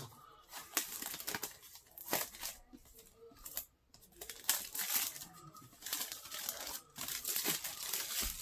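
Cardboard box and its packing being torn open and handled: irregular tearing, rustling and crinkling in repeated bursts.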